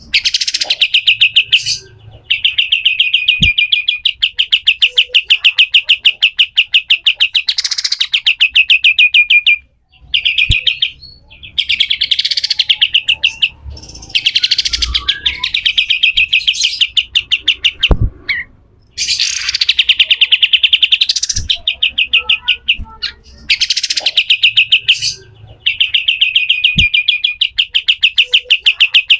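Kapas tembak songbird giving its harsh, rapid chattering song ('besetan kasar'): long runs of quickly repeated buzzy notes, several seconds each, broken by short pauses. A few faint clicks fall between the runs.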